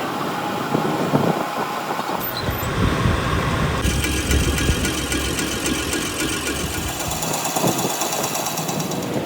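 Workshop machinery running with a steady mechanical noise. A deep rumble sets in about two seconds in, and a fast, even high-pitched rattle joins about four seconds in and lasts almost to the end.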